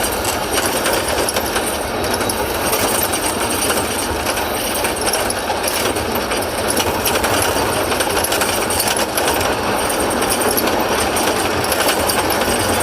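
Heavy diesel engine running steadily under work, close and loud, with a dense fast rattle.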